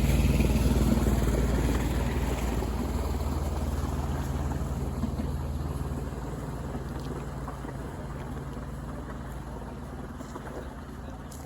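A boat's engine running steadily with a low hum and water noise, fading gradually as the boat draws away.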